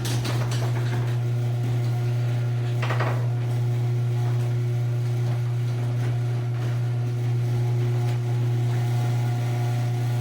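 Garage door opener motor running with a steady low hum as it drives the door closed.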